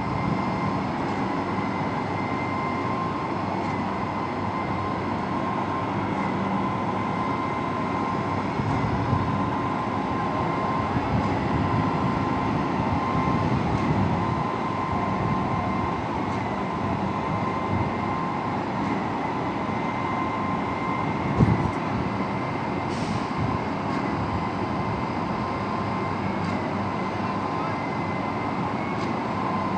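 Construction machinery running steadily: a continuous rumble under a constant high whine, with one sharp knock about two-thirds of the way through.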